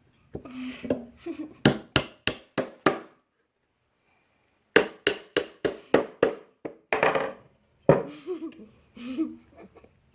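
Hammer driving nails into cedar board: two runs of evenly spaced blows, about three a second, five strikes and then six more after a short pause, followed by a few looser knocks.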